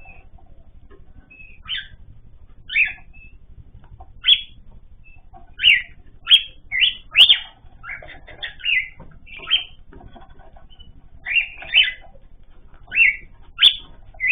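Caged pet birds giving short chirping calls, spaced irregularly, over a low steady hum.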